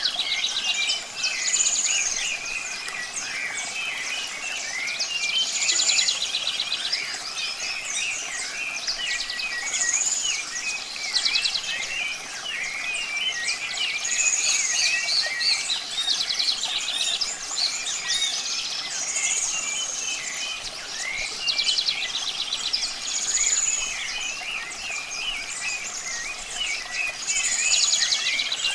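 Many birds chirping and singing together. One repeats a short high call with a buzzy trill about every four seconds, over a steady background hiss.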